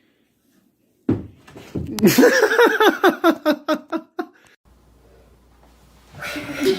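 A person laughing hard for about three seconds, starting about a second in, in a rapid run of short pitched bursts. A short breathy rush of noise near the end.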